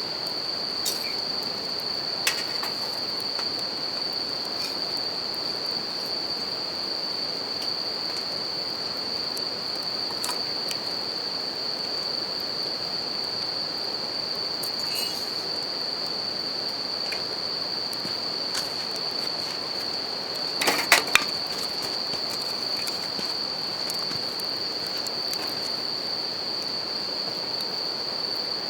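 Japanese bell crickets (suzumushi) singing a steady high note over a river's running water, with a wood campfire crackling in scattered pops and a brief burst of loud pops about three-quarters of the way through.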